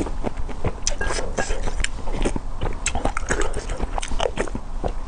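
Close-miked eating: wet chewing, biting and lip smacks over a mouthful of spicy luosifen rice noodles, a rapid, irregular run of short clicks.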